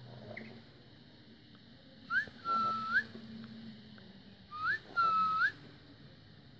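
Pet lory whistling two matching phrases, about two and a half seconds apart: each a short rising note followed by a longer steady note that flicks upward at the end.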